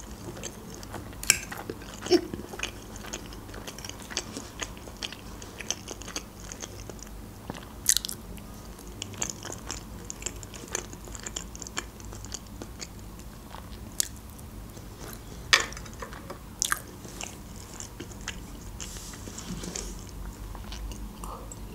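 Close-miked chewing and wet mouth sounds of someone eating a soft layered sprat salad, with sharp clicks and taps scattered throughout, the loudest a handful spread across the stretch.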